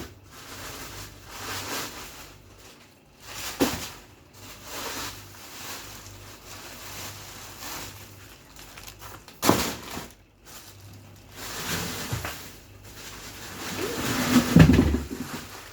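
Frozen packages being handled while a freezer is emptied: a few sharp knocks, plastic rustling between them, and a cluster of heavier thuds near the end.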